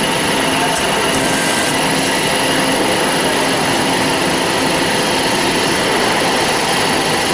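Metal-cutting band saw machine running steadily, a loud, even machine noise with a constant high whine.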